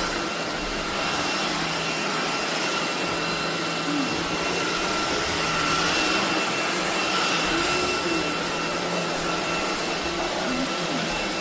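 SunSare X11 cordless stick vacuum running steadily: an even rush of air with a faint steady whine.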